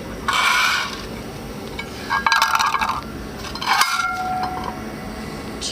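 Two steel flexplates being handled against each other: three bursts of metal scraping and clinking, the last leaving a short ringing tone.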